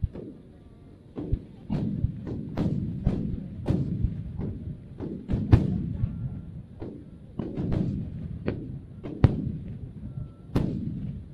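Aerial fireworks shells bursting one after another: a rapid, irregular string of sharp bangs, each trailing into a low rolling boom.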